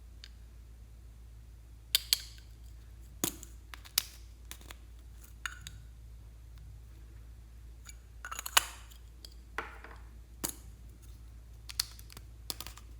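Slime being worked by hand: scattered sharp clicks and small pops, with a short run of crackling about eight seconds in, over a steady low hum.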